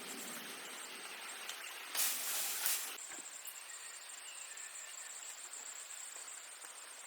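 Insects chirring steadily in one high pulsing tone, with a louder burst of rushing noise about two seconds in that lasts about a second.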